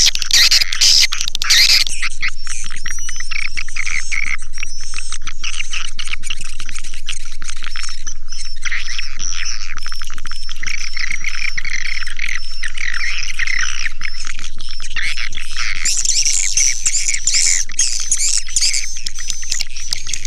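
Swiftlets (walet) calling: a dense, continuous chorus of high twittering chirps, growing brighter and shriller about three-quarters of the way through.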